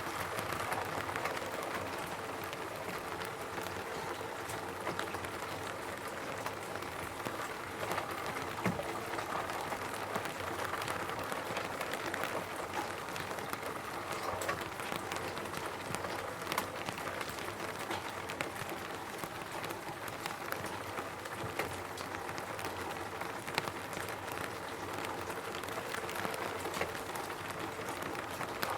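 Steady rain falling on a roof, a continuous patter with many separate drops and an occasional louder drop tapping.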